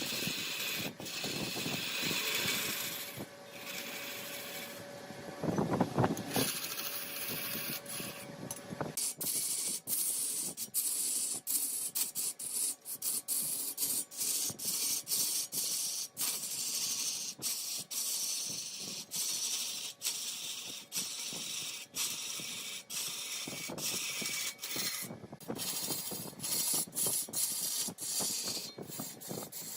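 Wood lathe turning a mahogany piece, the cutting tool shaving the spinning wood with a steady hiss broken by many brief gaps. There is a short low rumble about six seconds in.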